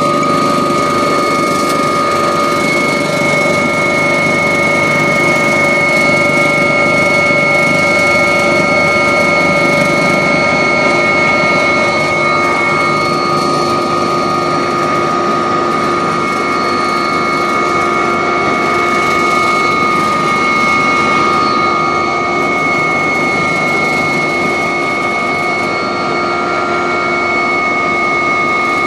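Agusta helicopter's turbine engine and rotor running steadily, heard from inside the cabin: a loud, even rush of noise with several steady high whining tones over it.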